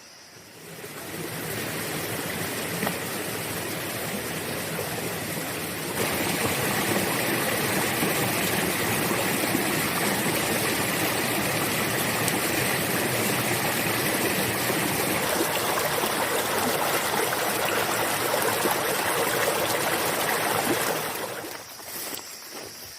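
A steady rush of flowing water that fades in about a second in, grows louder about six seconds in, and fades out shortly before the end.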